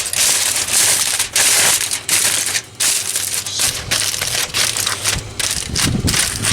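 Aluminium foil crinkling loudly in irregular bursts as it is handled and pressed over a brisket.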